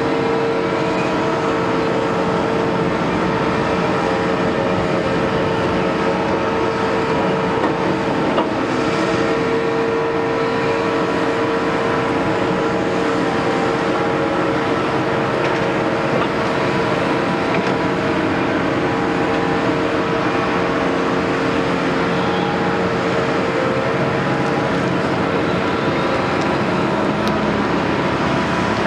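Caterpillar 329E excavator's diesel engine running steadily at working revs, with a steady whine over it.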